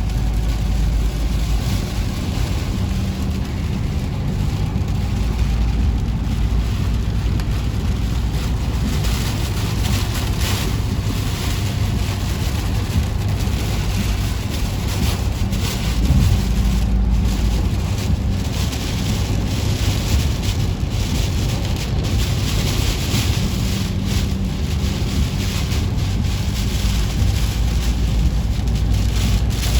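A car driving through a thunderstorm's wind and rain, heard from inside the cabin: a steady road and engine rumble under a hiss of rain and wind on the body. The hiss swells in gusts, more strongly in the second half.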